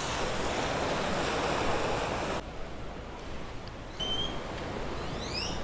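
Ocean surf washing in a steady rush, which cuts off abruptly about two and a half seconds in. Near the end a bird starts chirping, a quick series of rising chirps about two a second.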